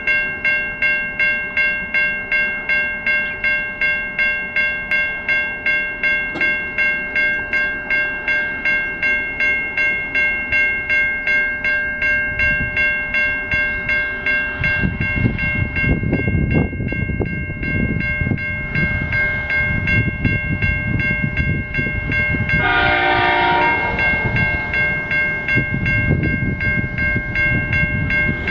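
Level crossing warning bell ringing steadily, about two strokes a second, as a diesel coal train hauled by locomotives 5024 and 5031 approaches. The train's rumble builds from about halfway through. The locomotive horn sounds once for about a second near the end.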